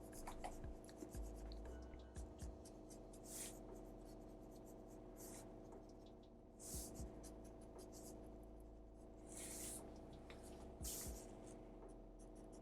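Pencil sketching on paper: short, light scratchy strokes every second or two, faint, over a steady low hum.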